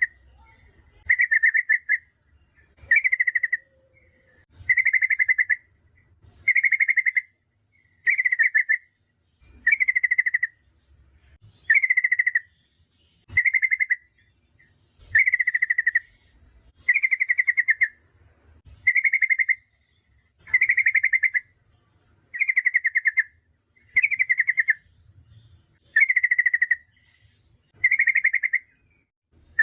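Yellow-vented bulbul (trucukan) giving a short, rapid chattering call over and over, about once every two seconds. It is a female's call used as a lure to make other trucukan answer.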